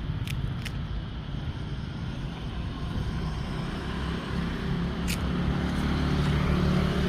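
An engine running steadily, getting louder in the second half, with a few short sharp clicks.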